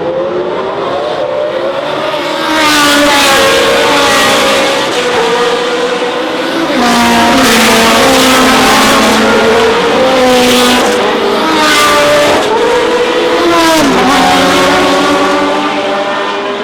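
A historic racing car's engine at full throttle, its pitch climbing and then dropping sharply several times as it shifts gears.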